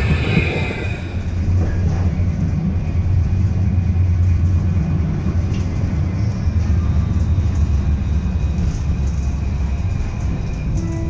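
Tram running along the track: a steady low rumble of wheels on rail, with a faint wheel squeal fading in the first second and scattered light clicks.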